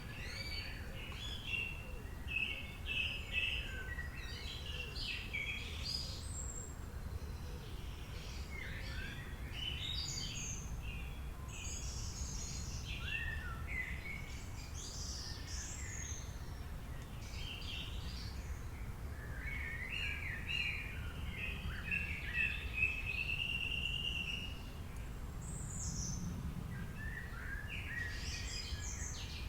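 Wild birds chirping and singing in bouts of short, varied calls, with a longer trilled phrase a little past the middle, over a steady low background rumble.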